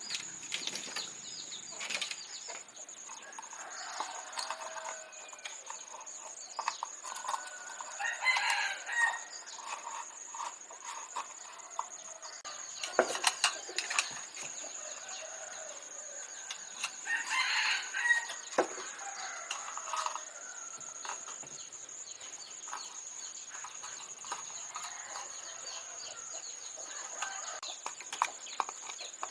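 Domestic chickens clucking, with a rooster crowing twice, about nine seconds apart.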